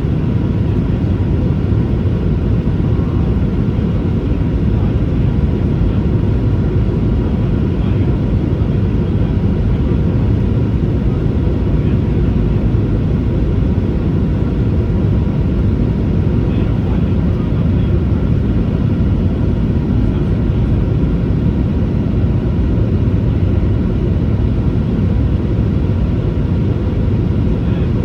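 Cabin noise of a Boeing 737-800 in flight: its CFM56 jet engines and the airflow make a steady, loud low rumble with a faint steady tone above it.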